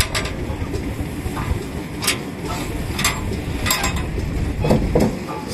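Vintage kerosene stationary engines running, a dense low rumble broken by sharp pops or clanks at irregular gaps of about a second.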